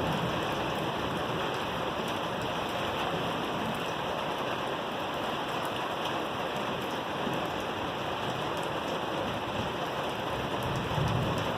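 Steady rain falling during a thunderstorm, with a brief low rumble near the end.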